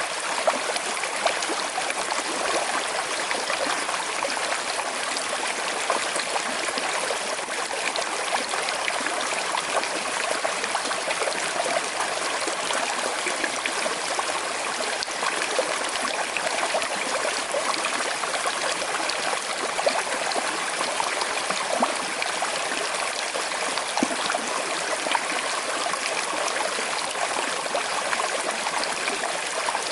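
Small river flowing over stones in a slight current: a steady rush of water with scattered small splashes and trickles.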